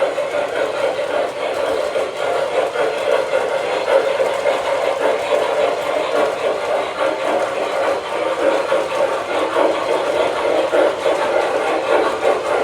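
O scale model steam locomotive running on the track, a steady rolling rumble of wheels and motor.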